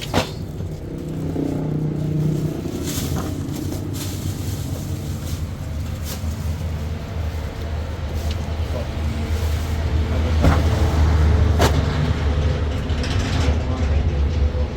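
Motor vehicle engine running steadily as a low hum that swells about two thirds of the way through, with a few sharp clicks or knocks over it.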